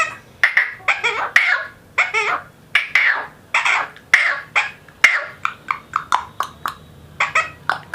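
Rose-ringed (Indian ringneck) parakeet chattering: a rapid run of short clicks and chirpy calls, about two or three a second.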